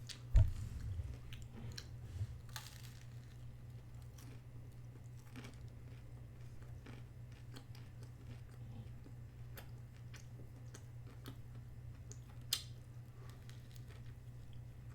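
A person eating a chicken burger and fries close to the microphone: chewing with small crunches and mouth clicks, over a steady low hum. A loud low thump comes about half a second in, and a sharper click near the end.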